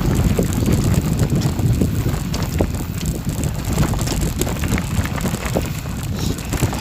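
Wind buffeting the microphone as a steady low rumble, with scattered short clicks and rattles over it.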